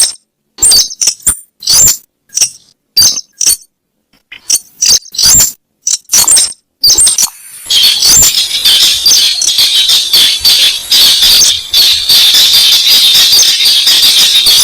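Recorded lure call of the weris bird: sharp, high, squeaky calls in short clusters with silences between them, then from about eight seconds in a continuous, rapid high-pitched chattering.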